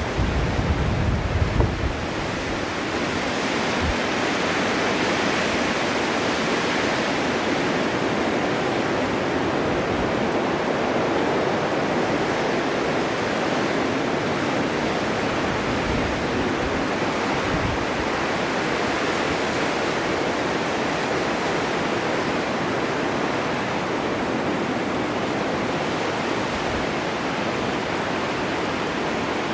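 Snowstorm wind blowing steadily, an even rushing noise that swells slightly in the first few seconds. In the first two seconds there are low rumbling gusts.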